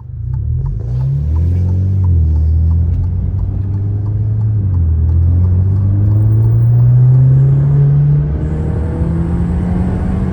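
Alfa Romeo Giulia's 2.0-litre turbocharged four-cylinder through a Madness Monza aftermarket exhaust, accelerating hard. The engine note climbs, drops at an upshift about two seconds in and again near five seconds, then climbs once more and eases to a steady cruise near the end.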